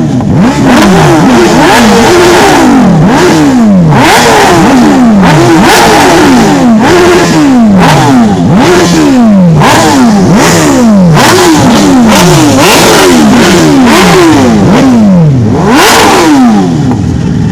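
Sport motorcycle engines being revved over and over, loud: more than a dozen quick throttle blips, each rising sharply in pitch and falling back, some overlapping as if from more than one bike.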